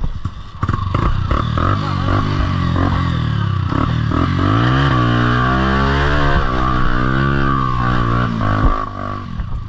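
Dirt bike engine accelerating hard under load, with clattering in the first few seconds; the revs climb about four and a half seconds in, hold high, then drop near the end.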